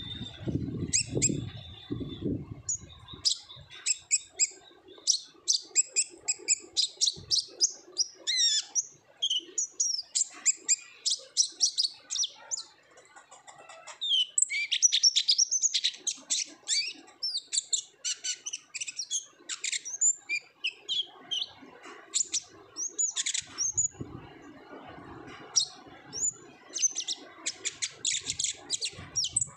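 Kolibri ninja sunbird singing hard: a rapid, dense run of high chirps and twittering trills, pausing briefly about halfway through before going on.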